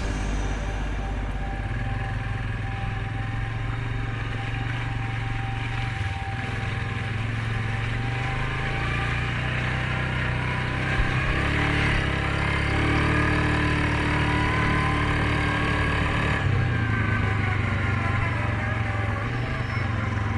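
Suzuki KingQuad 750 ATV's single-cylinder engine running steadily under way on a trail. The engine gets a little louder, with a higher gliding whine, from about the middle until shortly before the end.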